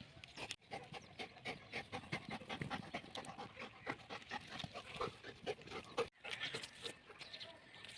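German Shepherd dog panting, quick repeated breaths with two brief breaks.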